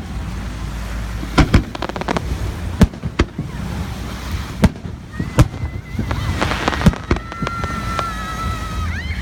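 Fireworks display: sharp bangs of shells bursting, one every second or so, with bursts of crackling about one and a half seconds in and again past the middle. High whistling tones run through the second half, one rising near the end.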